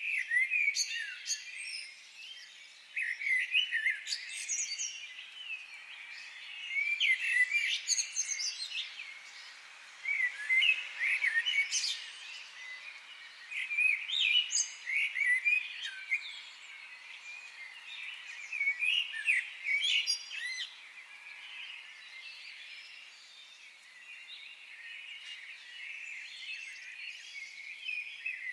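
Several songbirds singing in a forest, quick phrases of chirps and whistles every few seconds over a faint background hiss.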